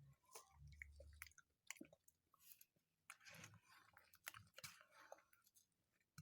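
Faint close-up mouth sounds of someone eating pineapple mazamorra, a soft pudding: wet chewing with scattered sharp clicks and lip smacks.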